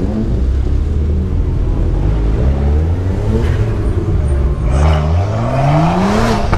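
Car engine revving as the car accelerates, its pitch rising in several pulls, the longest near the end. A rush of noise builds over the last couple of seconds.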